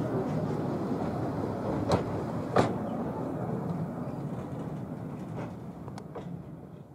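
Rumble of a narrow-gauge train's coaches rolling away along the track, fading steadily, with three sharp metallic clanks from the wheels on the rails, two close together about two seconds in and one near the end.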